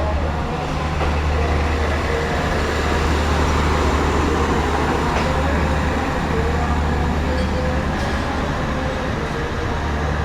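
Karakoram Express passenger coaches rolling on the rails as the train leaves the station: a steady, loud rumble with a constant low hum and occasional faint wheel clicks.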